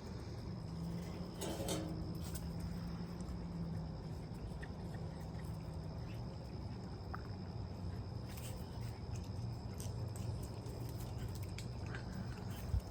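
Dogs play-wrestling: light scuffling and pattering paws, with scattered soft clicks.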